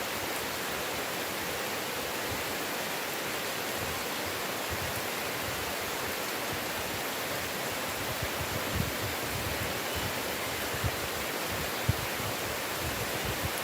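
Heavy rain falling steadily, an even hiss, with a few short low thumps in the second half.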